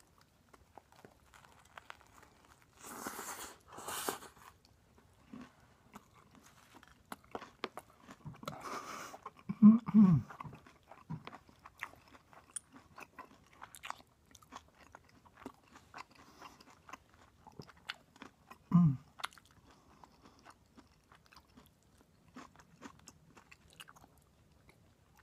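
A person chewing and biting into a grilled lobster salad sandwich, with many small wet clicks and crunches of toasted bread. There are two short, low vocal sounds that fall in pitch, about ten seconds in and again near nineteen seconds.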